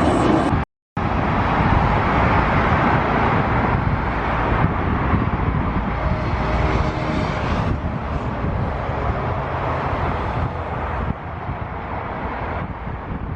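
Jet airliner engines: a steady rush of engine noise that fades slowly, cut by a brief total dropout about a second in.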